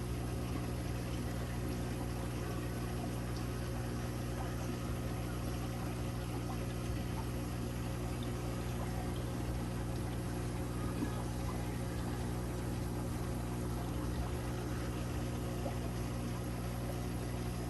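Aquarium filter and pump running steadily: a constant low hum with moving water over it.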